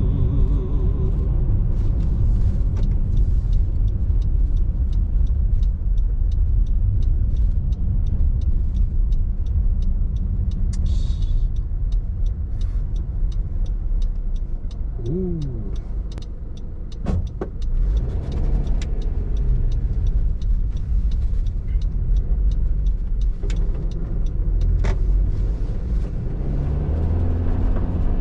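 Car interior while driving: a steady low engine and road rumble. For several seconds there is an evenly spaced ticking, like a turn-signal indicator. Near the end the engine note rises as the car speeds up.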